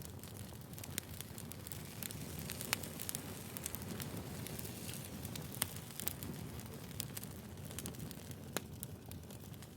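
Firewood burning in a fire: a steady low rush of flames with irregular sharp crackles and pops, the loudest pops about a third and two-thirds of the way through.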